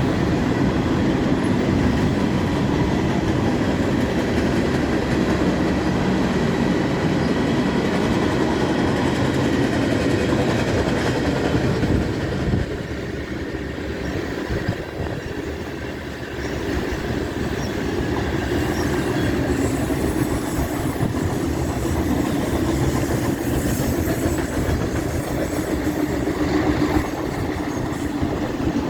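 CPKC freight train rolling past, its wheels rumbling and clattering steadily over the rails. The noise eases for a few seconds about halfway through, then picks back up.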